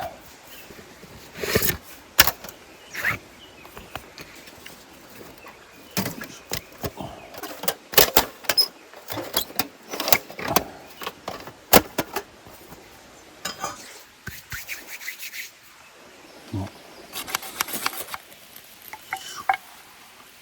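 Irregular clicks, knocks and light clatter of camp gear being handled and set down, coming in clusters.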